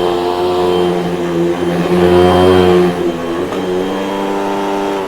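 Vacuum cleaner motor running with a steady whine, the pitch wavering and the level rising for a moment about halfway through, then cutting off right at the end.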